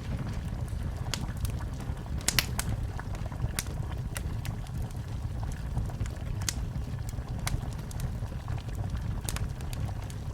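Wood fire crackling in a fireplace: irregular sharp pops and snaps over a steady low rumble of the flames, with the loudest pops about two seconds in.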